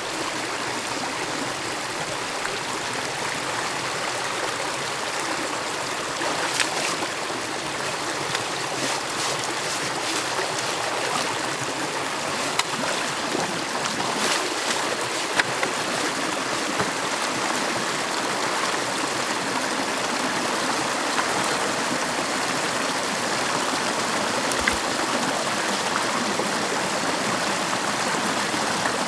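Stream water flowing and gurgling steadily through a beaver dam being opened by hand. A few brief knocks and clicks are scattered through it.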